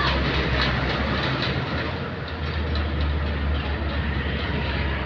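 Heavy diesel engine running steadily, with a deep hum and a light ticking clatter over it.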